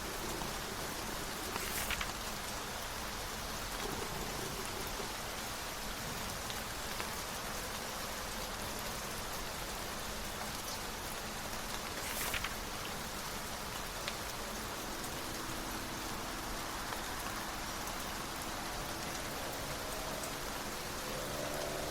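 Steady rain falling on a surface, with two brief rustles of a book's page being turned, about two seconds in and again about twelve seconds in. In the last few seconds a droning hum that rises in pitch grows louder.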